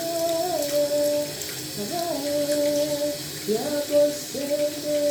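A voice singing wordless held notes, each sustained for a second or more and then sliding up or down to the next pitch, in a slow prayerful melody. A steady rushing hiss runs underneath.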